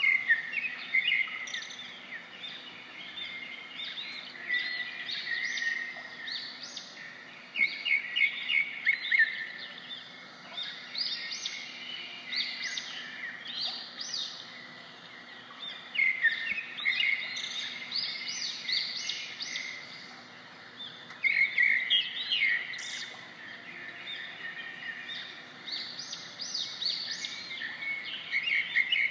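Birds chirping and singing, several at once, in quick high chirps and trills that swell into louder bursts every several seconds, over a faint steady background noise.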